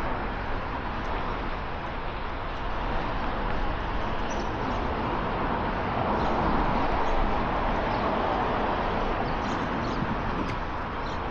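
Steady city street traffic noise, swelling as a vehicle goes by about halfway through, with a few faint high chirps near the end.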